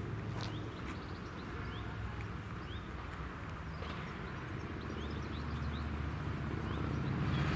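Outdoor ambience: birds chirping over a low steady hum that grows louder near the end.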